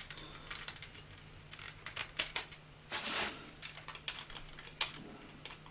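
Hard plastic toy parts of a Transformers figure clicking and snapping as its feet are fitted on, with irregular small ticks throughout and a short hiss about three seconds in.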